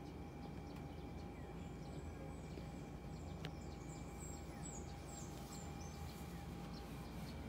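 Small birds outside chirping faintly, short high falling chirps that come thicker in the second half, over a steady low background hum.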